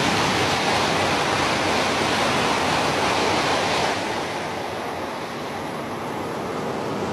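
Shinkansen bullet trains passing at speed: a steady rushing noise that becomes a little quieter about four seconds in.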